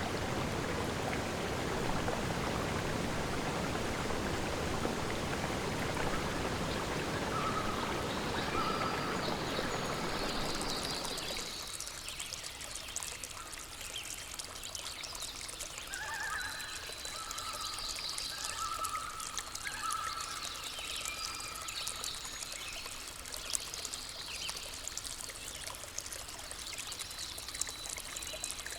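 Rushing water, a full, even sound, changes abruptly about eleven seconds in to a lighter trickling stream. Over the stream birds call in short, repeated phrases.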